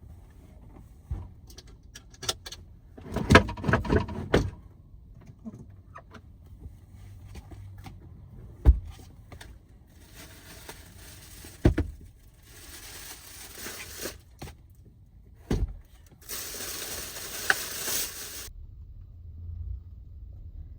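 Objects being handled at close range: a string of sharp clicks and knocks, heaviest about three to four seconds in, with two stretches of rustling hiss, the second cutting off sharply.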